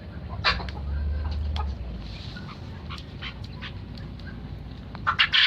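Birds in a poultry pen calling in short, sharp notes scattered through, with a louder, longer call near the end.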